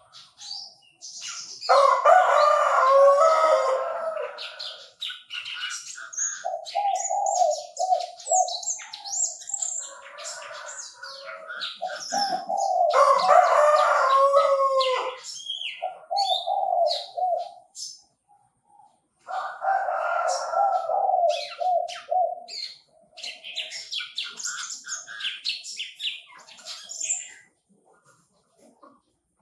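Chinese francolin calling: loud, repeated multi-note phrases a few seconds long, with small birds chirping high and brief in between.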